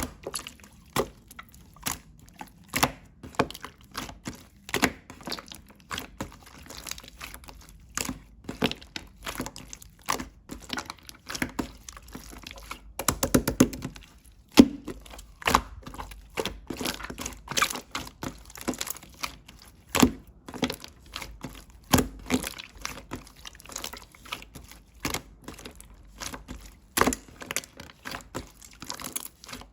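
Slime being pressed, poked and stretched by hand, giving irregular sticky clicks and pops, with a quick run of crackling pops about halfway through.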